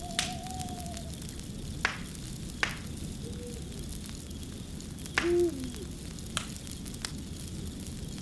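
Wood fire crackling steadily with sharp pops every second or so. A few short low pitched calls sound over it, the loudest about five seconds in.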